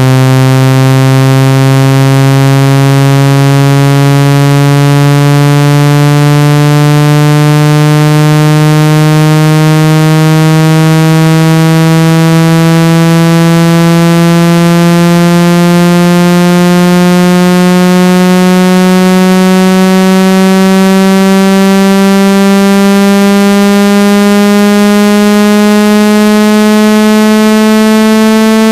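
Loud synthesized electronic tone with many overtones, rising slowly and steadily in pitch. It is a water-ejection sweep tone, played through a phone speaker or earpiece so the vibration shakes trapped water out.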